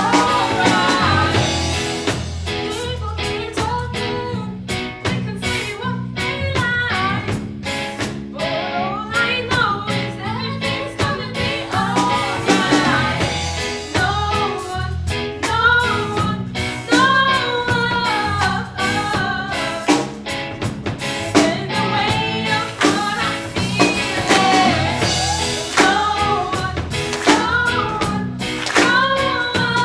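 Live band playing a song: sung vocals over guitar and drums with a steady beat.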